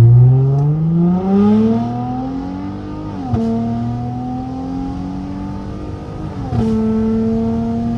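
Straight-piped Dodge SXT accelerating under hard throttle, its exhaust note climbing in pitch, then dropping suddenly as the automatic transmission upshifts about three seconds in and again near the end, with a short pop at the first shift.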